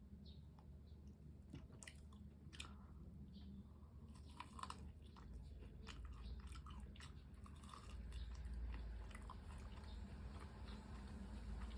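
Close-up biting and chewing of crispy fried chicken, with short crunchy crackles starting about a second and a half in and coming thickest in the middle.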